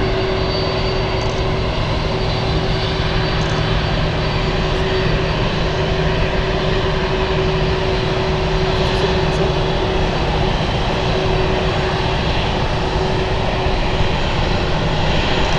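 Jet airliner engines running steadily: a loud, even rush of noise with a constant low hum and a faint high whine, not rising or falling.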